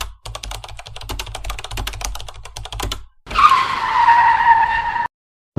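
Fast computer-keyboard typing, many rapid clicks for about three seconds over a low hum. After a brief gap comes a car tyre screeching for nearly two seconds, which cuts off sharply.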